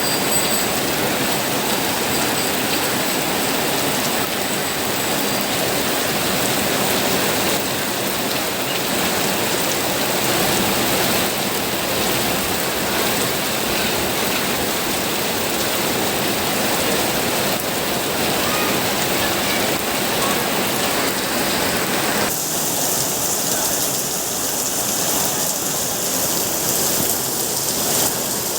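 Steady rain falling, an even hiss of drops on surfaces. About three quarters of the way through, the sound abruptly turns thinner and hissier.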